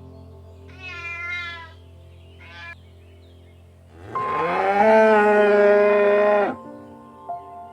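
A cat meows twice, the second time briefly, and then a cow gives one long, loud moo that rises at the start and then holds, over soft background music.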